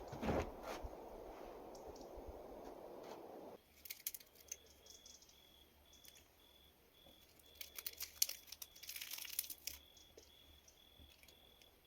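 Crinkling, crackling rustles of something being handled, in scattered clusters, over an insect chirping in short even pulses of one high note. Before these, a steady rushing noise with a knock cuts off suddenly.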